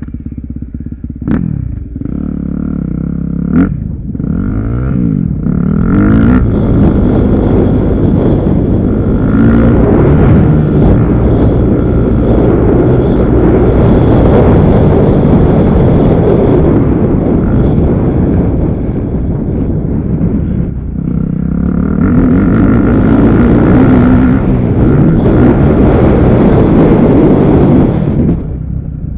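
Motocross motorcycle engines running and revving, pitch rising and falling with the throttle. A couple of quick throttle blips come first, then the engines run loud, easing briefly about two-thirds of the way through.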